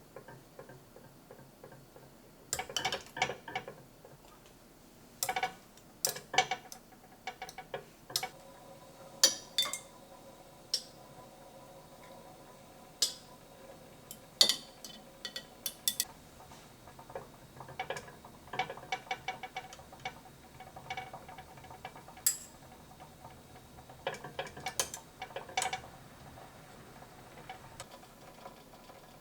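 Scattered clinks and taps of kitchenware being handled, some leaving a brief ringing tone, in irregular clusters.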